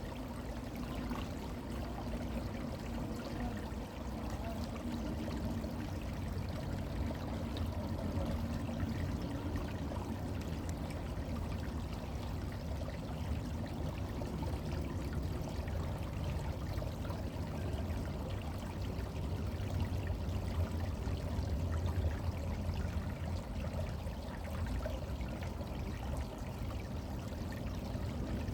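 Small brook flowing: steady running and trickling water.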